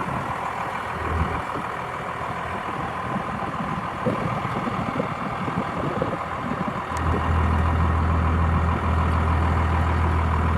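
Pickup truck running, engine and road noise heard from inside the cab; about seven seconds in a strong low drone sets in and the noise gets louder.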